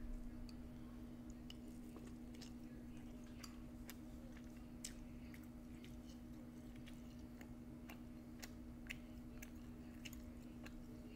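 Close-miked chewing of a mouthful of cilantro lime chicken, with irregular small wet mouth clicks, over a steady low hum.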